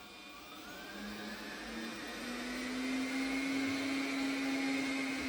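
Arnagar S8 robot vacuum cleaner's motors spinning up at the start of a cleaning run. A whine rises in pitch and the sound grows louder over the first three seconds, then runs steadily.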